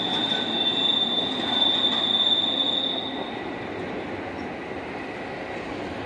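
Freight train cars rolling past, with a steady high-pitched wheel squeal over the rumble of the wheels; the squeal stops about three seconds in as the last car clears, and the rumble fades.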